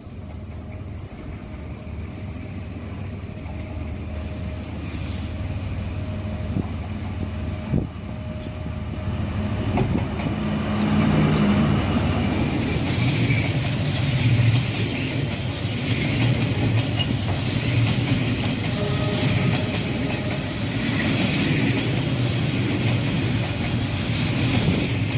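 D19E diesel-electric locomotive with its train, the engine humming and growing louder over the first ten seconds or so as it draws near, then a steady rush of wheels running on the rails.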